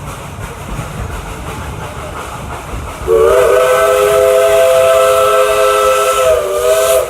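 Steam train rumbling and clattering along, then about three seconds in the steam locomotive's whistle sounds a long, loud blast of several notes at once, sagging slightly in pitch near the end.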